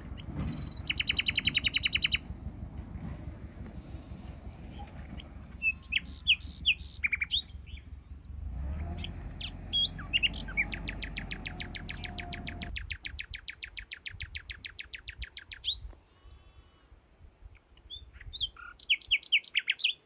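Songbirds singing in rapid trills and short chirps, with one long trill near the middle. A low rumble underneath stops about two-thirds of the way through.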